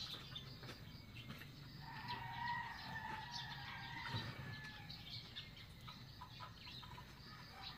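Faint bird calls, with one drawn-out call running from about two to three and a half seconds in, over a steady low background hum.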